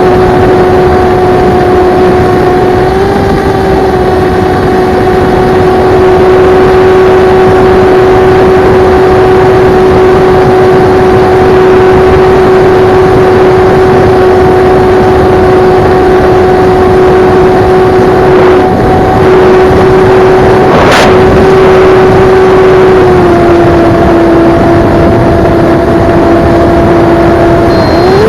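Brushless RCX 2207.5 1700kv drone motor spinning a Gemfan Flash 7042 seven-inch propeller at steady high throttle on 4S: a loud, even propeller hum over rushing air. The pitch rises slightly early on, dips a little near the end and then climbs again. One sharp click comes about three-quarters of the way through.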